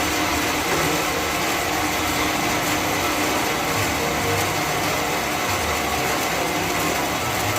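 Sawmill machinery running steadily, a constant mechanical noise with a few steady humming tones and no pauses.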